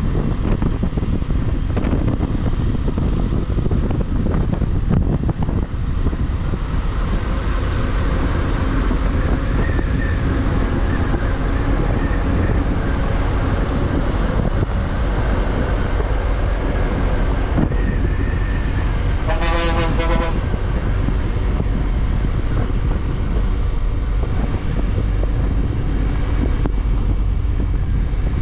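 Motorcycle riding at speed, with steady wind buffeting on the microphone over the engine and road noise. A vehicle horn sounds once, briefly, about two-thirds of the way through.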